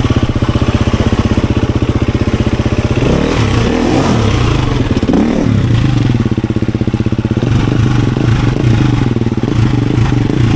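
Enduro motorcycle engine running at a steady low speed, then revved up and down repeatedly from about three seconds in.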